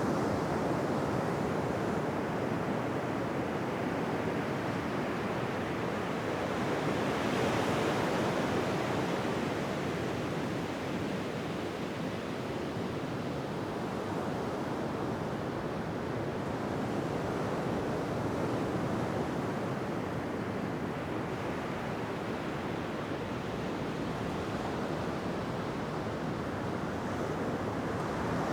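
Ocean surf: waves breaking in a steady rush, swelling louder about seven seconds in before easing back.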